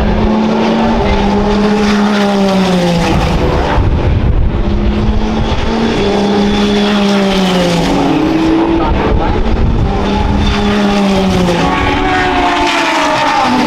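Endurance race cars running on track at speed, their engines climbing and then dropping in pitch over and over as they shift through the gears.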